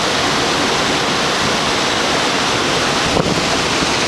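Steady loud rush of river water running over stones, with a single short knock about three seconds in.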